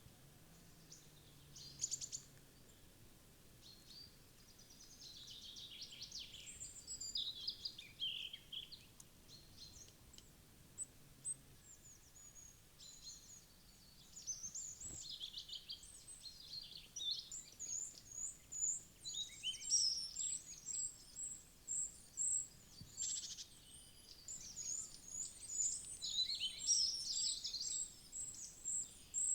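Woodland songbirds calling and singing, with many overlapping chirps and short trills. In the second half a very high, thin note repeats in a steady series, about two a second.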